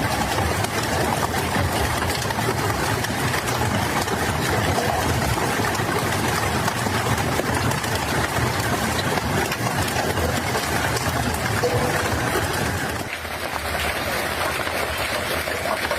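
Heavy hail and rain pelting down: a dense, continuous clatter of countless small strikes over a rushing hiss.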